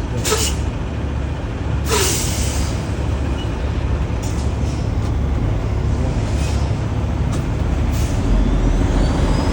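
Semi-truck diesel engine idling with a steady low rumble, broken by two sharp air-brake hisses, one just after the start and one about two seconds in, and a few softer hisses later.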